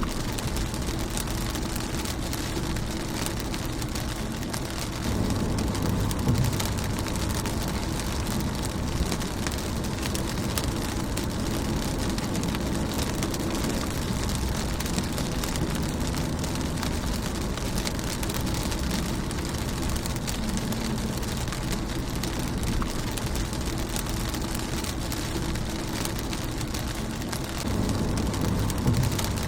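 Rain falling on a car's windscreen, a steady patter of drops. About five seconds in and again near the end there is a louder, deeper rush lasting a second or two.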